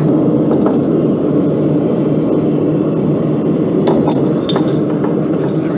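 A blacksmith's forge running with a steady low rushing noise as steel heats, with a few light metallic clinks, like tongs or steel touching, around a second in, around four seconds in and near the end.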